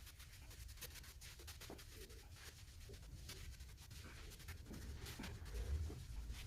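Faint, scratchy scraping made of many small ticks, like a trowel or hand tool working over cement floor mortar, with a low rumble that grows louder near the end.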